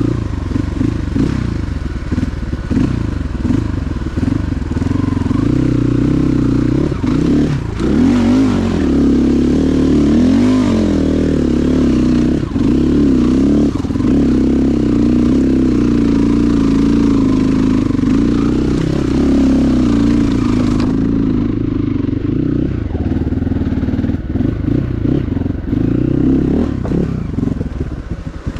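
Motorcycle engine running steadily, its pitch wavering up and down for a few seconds about ten seconds in.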